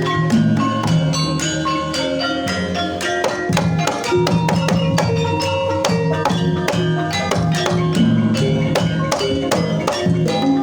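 Banyumasan gending for tayub, Javanese gamelan-style music: tuned struck percussion plays quick, dense runs of notes over steady drum patterns.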